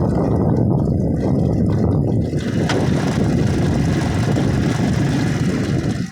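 Motor vehicle running with a steady, loud rumble that drops away abruptly at the very end.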